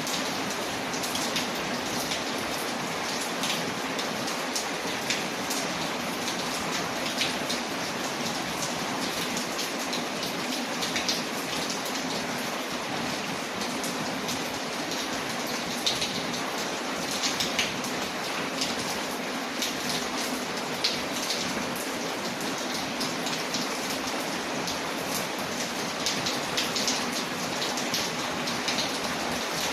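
Steady rain on a window, mixed with the frequent small crackles and pops of a fire in a fireplace.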